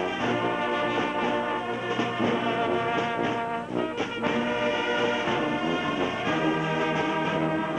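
Brass band music: several brass instruments playing held notes in chords over a low bass line.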